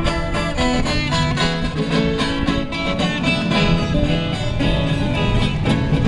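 Acoustic guitars strumming a caipira tune in an instrumental passage between sung verses, with steady, regular strokes.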